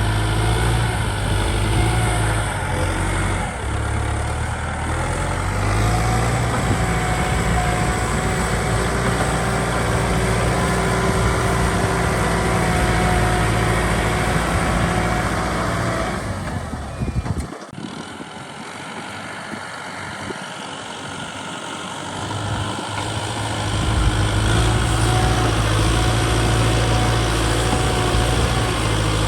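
Kubota ZT 155 DI two-wheel tractor's single-cylinder diesel engine running steadily. About two-thirds of the way through, its deep low note drops away and the sound grows quieter for a few seconds, then it comes back at full strength.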